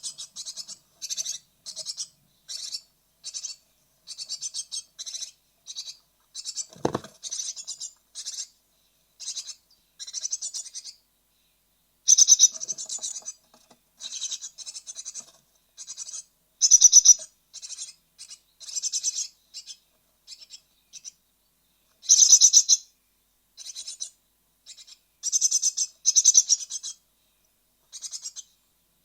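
Great tit nestlings calling in rapid bursts of high-pitched chirps, the restless begging of young near fledging. A single knock comes about seven seconds in.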